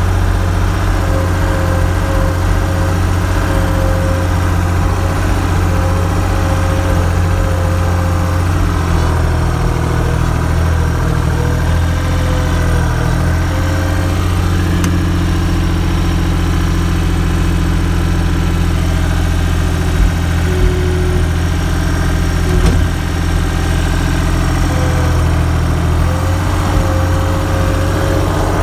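An engine running steadily at idle, close by, with a constant whine over its low hum and a single knock near the end.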